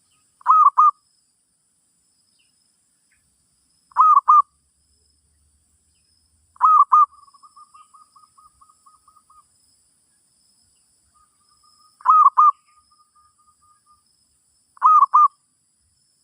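Zebra dove cooing: five loud double-noted phrases a few seconds apart, two of them trailed by a fainter, rapid run of short coos at the same pitch.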